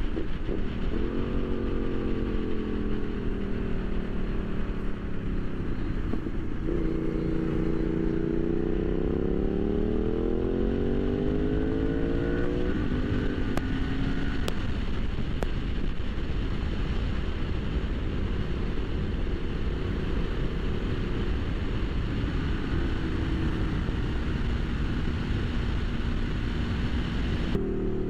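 Sport motorcycle engine under way: its note sinks as the bike slows, then climbs steadily for about six seconds under acceleration and settles to an even cruise, with constant wind rumble over the rider's microphone.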